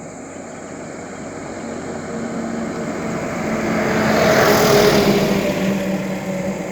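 A motor vehicle driving past close by: its engine and tyre noise grow louder to a peak about four to five seconds in, then fade.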